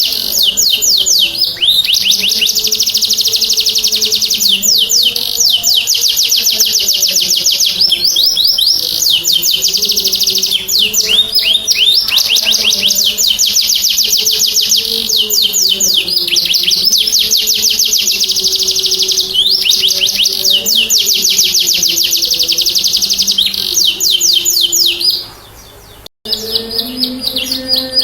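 Domestic canary singing in long, rapid, high trills, phrase after phrase, in full song; there is a brief gap about 25 seconds in, then the song picks up again.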